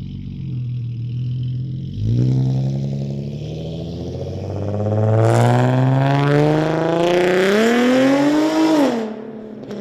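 Infiniti G37's V6 engine accelerating hard: after a steady run, about two seconds in its note climbs steadily in pitch for some seven seconds, then drops sharply near the end as the throttle is lifted.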